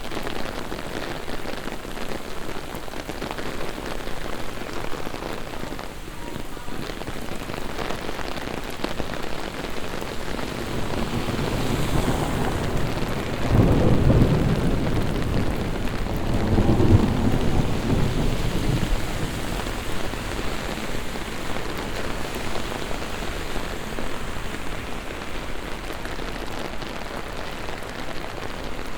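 Heavy rain pouring steadily on the street. About halfway through, a long roll of thunder rumbles for several seconds in two swells, the second a little weaker, then dies away under the rain.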